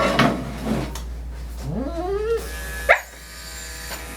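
Portuguese Water Dog whining and complaining while being clipped: a drawn-out rising moan about two seconds in, then a short sharp yelp near three seconds. The electric dog clippers hum underneath and cut off at about the same time as the yelp.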